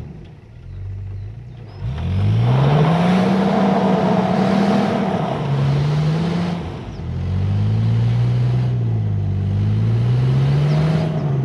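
Four-wheel-drive off-road vehicle's engine revving hard: its pitch climbs sharply about two seconds in, holds high, drops briefly and then rises again, wavering up and down as the throttle is worked.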